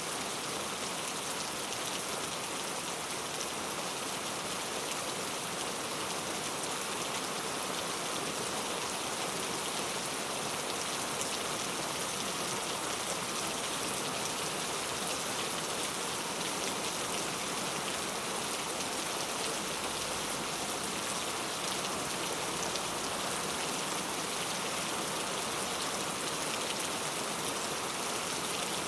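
Heavy rain falling steadily on street surfaces, a dense even hiss of drops with fine patter.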